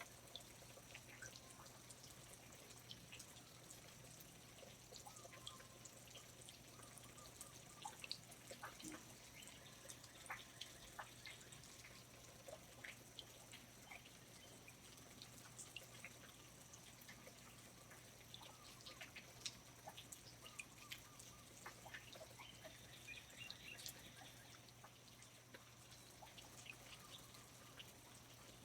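Faint water dripping irregularly in a rainforest, many small drops falling at uneven intervals over a soft hiss, with a few faint short chirps.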